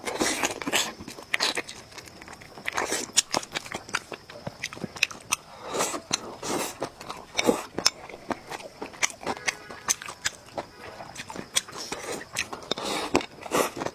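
A person chewing food close to the microphone, with irregular wet mouth smacks and crunches several times a second.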